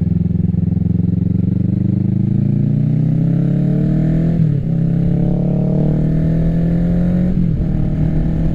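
2024 Kawasaki Ninja 650's parallel-twin engine running through an M4 full exhaust system while accelerating. The pitch climbs, drops sharply with an upshift about halfway through, climbs again, and drops with another upshift near the end before holding steady.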